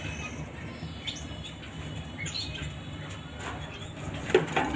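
Pet parrot giving short, high chirps, with a few sharp knocks or rustles in the last second or so; the loudest is about four seconds in.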